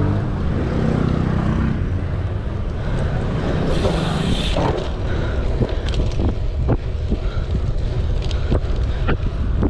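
Wind buffeting the microphone of a moving bicycle rider: a heavy low rumble, with a string of sharp clicks and knocks through the second half.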